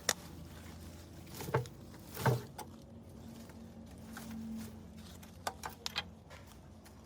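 Workshop knocks and clinks, like tools or metal parts being handled. There are a few sharp knocks, the loudest about two seconds in, and a quick run of clicks near the end, over a steady low hum.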